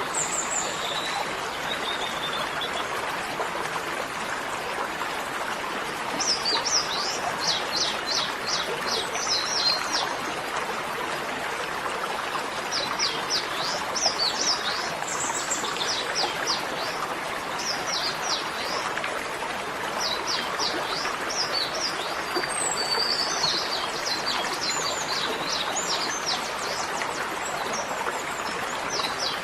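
A bird singing in repeated bouts of rapid, high, downward-sweeping chirps, over a steady rushing noise like running water.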